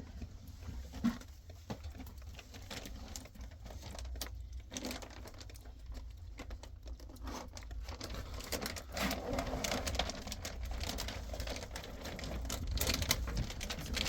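Irregular rustling and light knocking, growing busier about five seconds in, over a steady low rumble.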